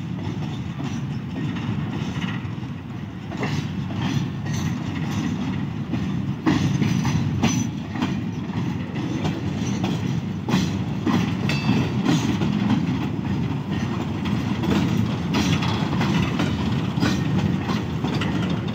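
A rake of loaded coal freight wagons rolling slowly past while being shunted by a GMCU-15 shunting locomotive. There is a steady low running noise, with wheels clacking irregularly over the rail joints.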